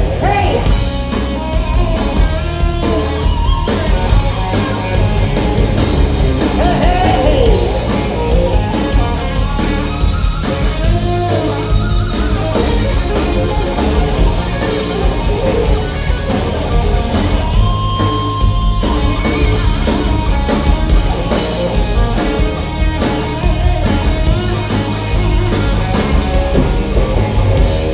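Rock band playing live through an instrumental passage: a lead guitar line with bending, sliding notes over a drum kit.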